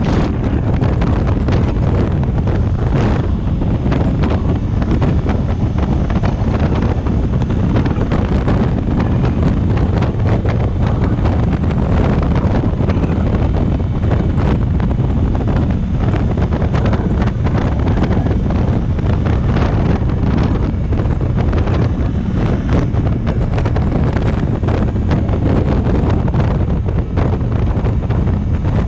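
Heavy wind buffeting on a helmet or bike-mounted microphone while riding a motorcycle at cruising speed, a steady loud rumble that drowns out the engine.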